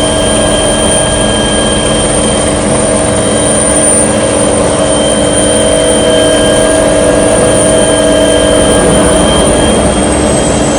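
Small aircraft's engine and propeller running steadily at cruise, a loud constant drone with several fixed tones, heard from inside the cabin.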